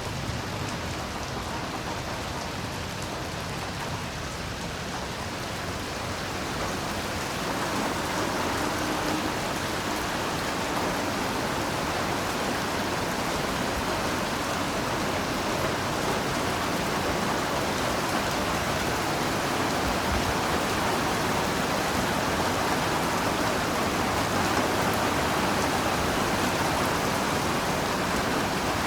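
Heavy rain falling steadily in a dense, even hiss that swells a little louder about seven seconds in.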